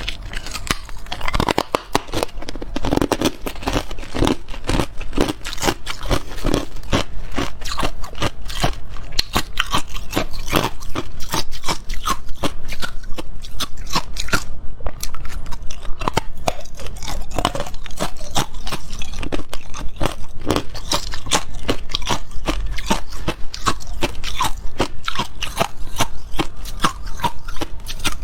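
Ice being bitten and chewed close to the microphone: rapid, crisp crunching, several crunches a second, with a brief pause about halfway through.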